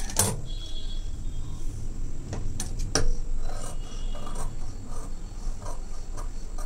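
Scissors cutting through fabric in a few short snips, mixed with the rasp and rustle of the cloth being handled, as a seam allowance is trimmed.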